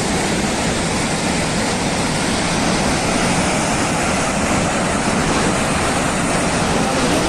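Loud, steady roar of a torrent of rushing water.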